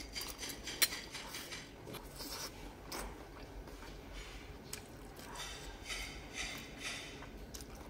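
Close-miked chewing and wet mouth sounds as a mouthful of food is eaten, with a few sharp clicks, the clearest a little under a second in and at about three seconds.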